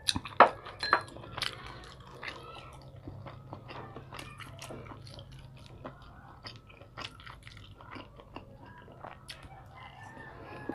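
Close-up chewing and biting of fried tofu, with soft crunches and wet mouth clicks, a few sharper ones in the first second.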